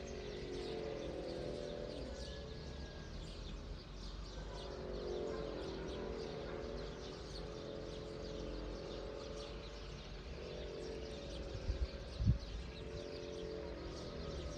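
Outdoor dawn chorus: many small birds chirping over lower wavering animal calls and a steady low rumble, with two brief low bumps near the end.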